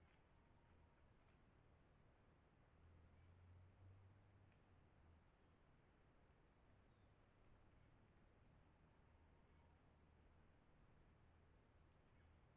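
Faint insect chorus: a steady high-pitched trill running on, with a softer chirp repeating about once a second and a low hum underneath.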